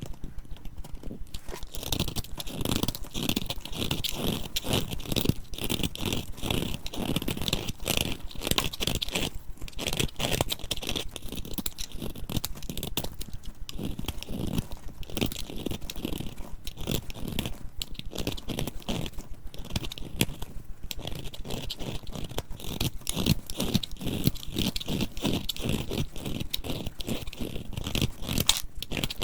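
Dry soap crunching and crumbling: a dense, unbroken run of crisp crackles and scrapes.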